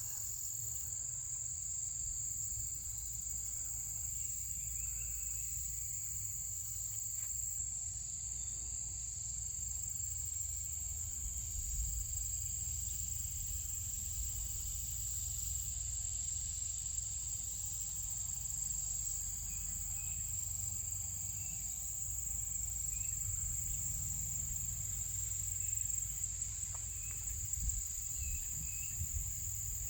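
Insects in chorus making one continuous, steady high-pitched drone, with a low rumble beneath it and a few faint short chirps in the latter half.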